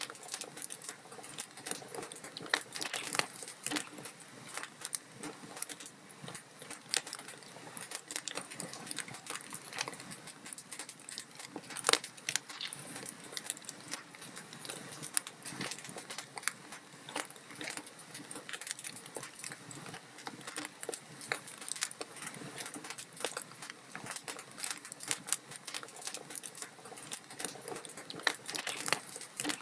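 Log fire crackling in a fireplace: a dense, irregular run of small pops and snaps over a soft hiss, with one louder pop about twelve seconds in.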